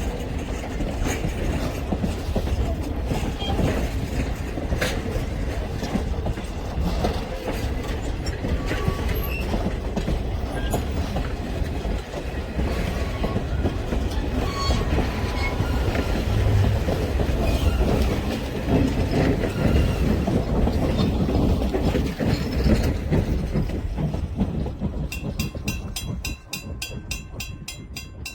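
Steam-hauled passenger train rolling past, its wheels clicking over rail joints above a steady rumble, dying away near the end.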